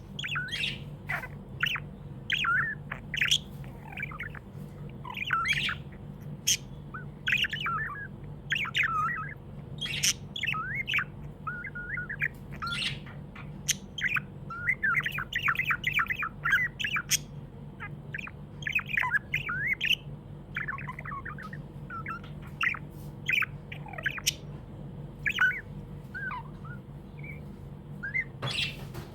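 Budgerigar chirping and chattering almost without pause, short rapid chirps mixed with sharp squawks, the happy chatter of a pet budgie. A steady low hum runs underneath.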